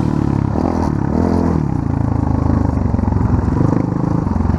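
Off-road motor vehicle engine running close by, revving so that its pitch rises and falls a couple of times in the first second or two, then running on steadily.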